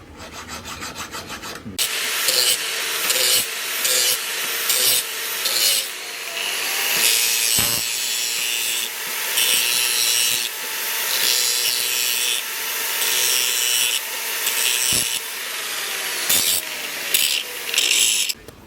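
Hand file rasping over the steel blade of a sickle forged from rebar, in repeated strokes. Quieter, quicker strokes at first, then louder strokes about once a second from about two seconds in, stopping suddenly near the end.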